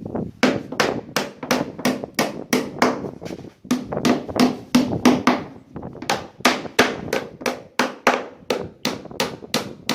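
Carpenter hammering on wood, quick even blows about four a second, with two brief pauses.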